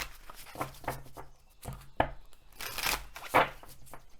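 A deck of oracle cards being shuffled and handled, with a few sharp card snaps amid papery rustling.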